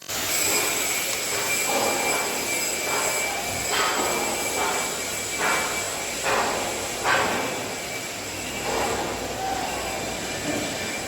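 Steady industrial machinery noise inside a blast furnace plant, with a constant high-pitched whine and a series of short clanking or hissing bursts every second or so.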